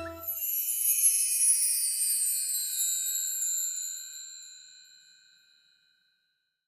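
A high, shimmering chime effect rings out, its bright tones gliding slowly downward and fading away over about five seconds.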